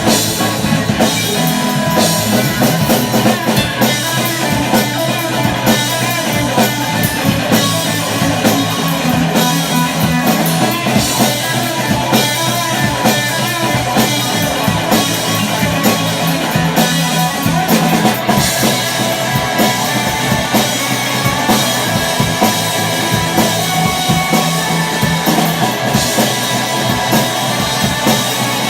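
Live rock band playing: two guitars, bass guitar and drum kit, loud and steady with a driving drum beat.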